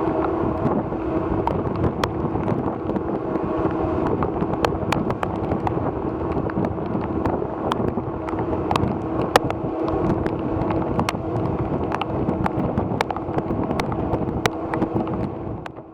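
Ferry machinery droning steadily with a held hum, under wind noise on the microphone and scattered sharp ticks of rain. It fades out near the end.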